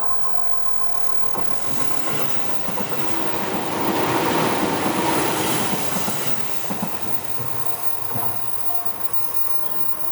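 Seibu Tamagawa Line train passing over a level crossing, its wheels clacking over the rails; the noise builds to a peak about four to five seconds in and then fades. The crossing's warning bell rings at the start and is soon covered by the train.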